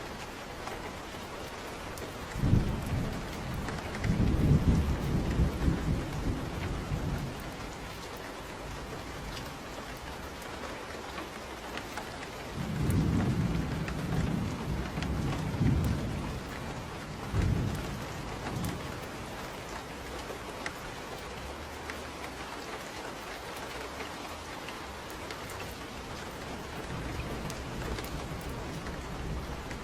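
Steady rain falling, with thunder rumbling low twice: a roll lasting a few seconds starting about two seconds in, and a longer one starting around twelve seconds in.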